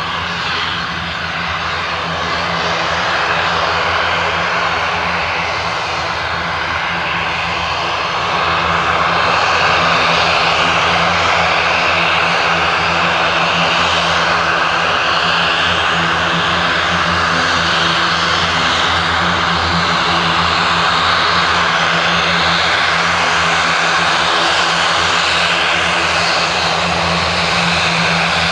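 Two Pratt & Whitney Canada PW119B turboprop engines of a Dornier 328 running, a loud steady propeller drone that grows a little louder about eight seconds in.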